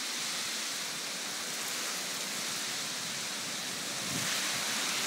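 Heavy rain pouring down in a severe thunderstorm, a steady hiss.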